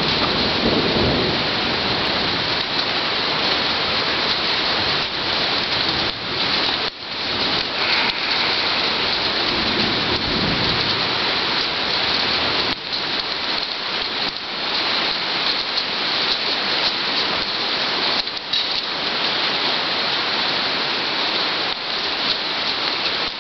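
Heavy rain mixed with hail pelting down in a steady hiss, with low rumbles of thunder about a second in and again around ten seconds in.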